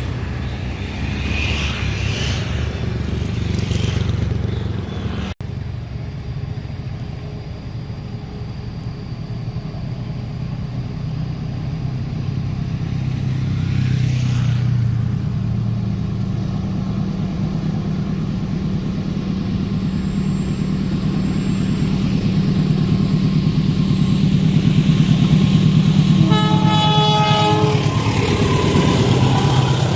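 Train approaching: the low rumble of its locomotive engine grows steadily louder. Near the end it sounds its horn once for about two seconds.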